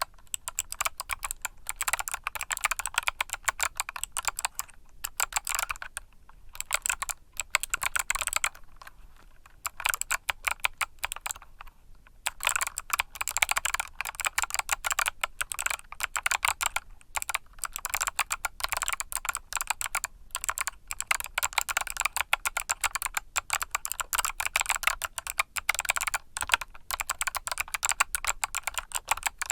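Typing on a mechanical keyboard with Kailh Box clicky switches: fast runs of sharp key clicks, broken by short pauses.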